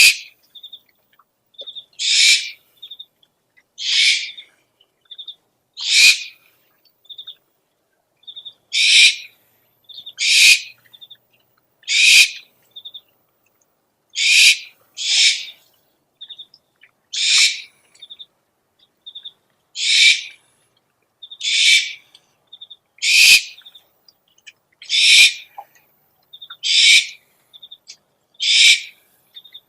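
Owl calls: a run of harsh, hissing screeches, each about half a second long, repeated every one and a half to two seconds, with short faint high peeps between them.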